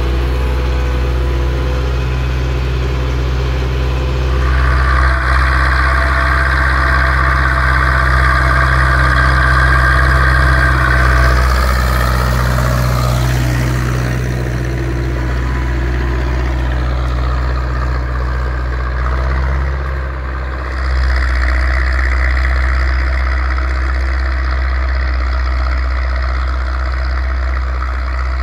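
Zetor 6245 tractor's diesel engine running steadily under load while pulling a three-furrow reversible plough, with a higher whine that comes in twice for several seconds.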